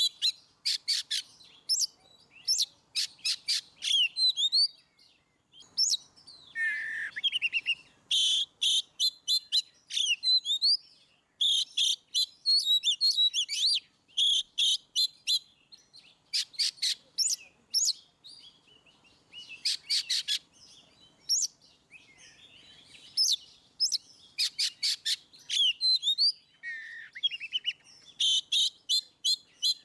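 Oriental magpie-robin (kacer) in full, loud song. Phrases of rapid repeated high notes alternate with whistled, sliding notes, including a couple of lower downward slurs, and the phrases are broken by short pauses.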